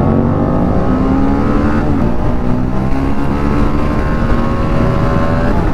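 Motorcycle engine accelerating hard through the gears: its pitch climbs steadily, drops at an upshift about two seconds in, then climbs again to another shift near the end.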